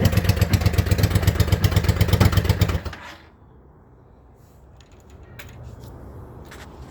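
Yamaha V-Star 650's air-cooled V-twin on straight pipes, running with a rapid, even exhaust pulse, then shut off about three seconds in.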